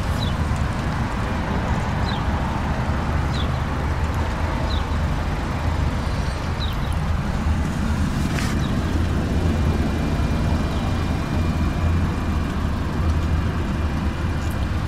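Skoda Octavia's 1.4 TSI turbocharged four-cylinder petrol engine idling steadily with a low rumble. Faint short high chirps repeat about every second and a half, and there is a single sharp click about eight seconds in.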